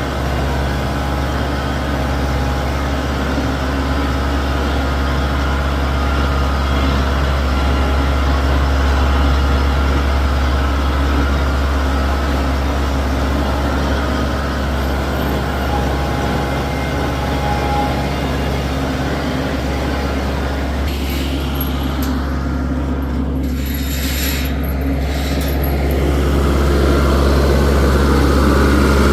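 A vehicle engine running steadily with a deep, low drone.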